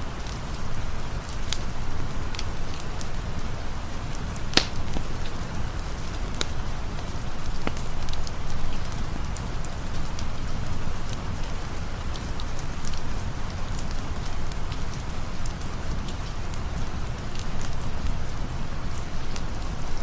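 Steady rain with scattered sharp pops and crackles from a campfire; the loudest pop comes about four and a half seconds in.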